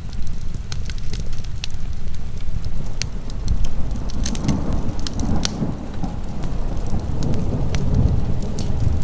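Wood fire crackling with sharp pops over a steady wash of heavy rain; a roll of thunder swells from about four seconds in.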